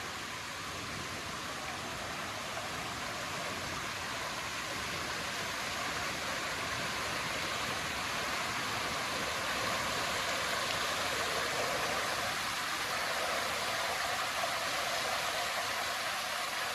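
Steady rush of running water, like a stream or small cascade, slowly growing louder.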